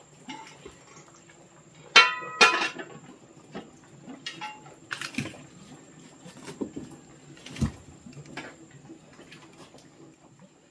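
Dishes or pots being handled: two loud ringing clinks about two seconds in, then lighter knocks and clatter.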